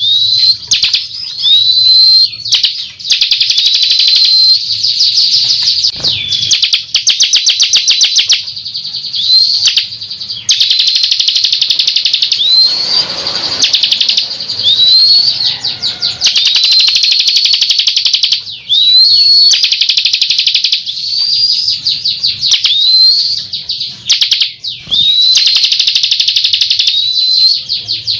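Bar-winged prinia (ciblek kristal) singing loudly and continuously: short high, upward-sweeping notes repeated every second or two, alternating with long, very rapid trills. This is a lure recording of the song, played to call in the bird.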